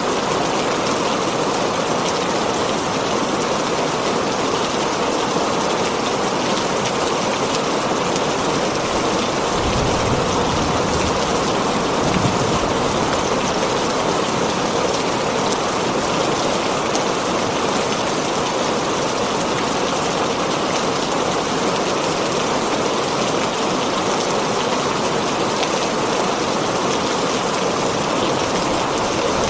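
Heavy rain drumming steadily on a tin roof, with a brief low rumble about ten seconds in.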